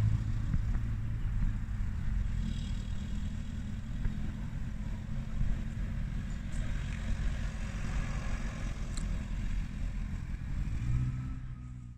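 Nimbus four-cylinder motorcycle engine running steadily, fading out near the end.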